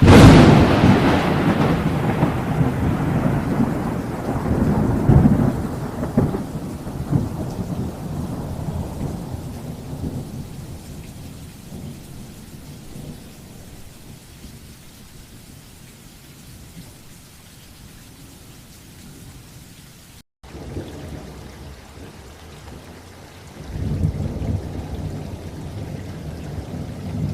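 A thunderclap cracks loudly right at the start and rolls into a long rumble that fades over about ten seconds, over steady rain. The sound drops out for an instant about twenty seconds in, and a second, lower rumble of thunder swells near the end.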